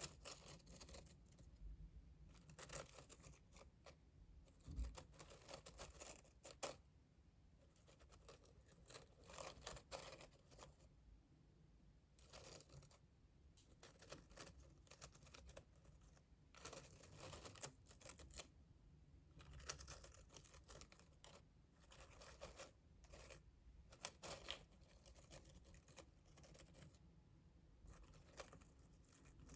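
Soft ASMR trigger sounds: irregular scratching and rustling strokes, coming in short clusters with brief pauses between them.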